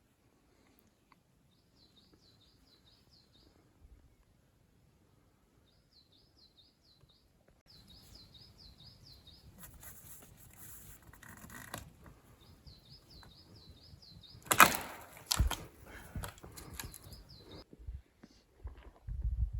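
A small bird singing short, repeated high warbling phrases several times. Rustling sounds and a burst of sharp, loud knocks or crunches come about fifteen seconds in.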